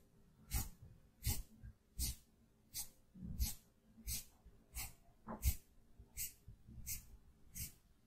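Makeup being applied close to the microphone: short swishing strokes, about one every 0.7 seconds, in an even rhythm.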